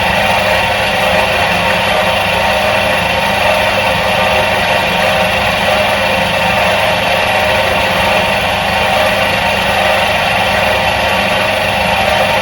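Electric motor of a 1977 Soviet washing machine running steadily, holding the same pitch and level throughout.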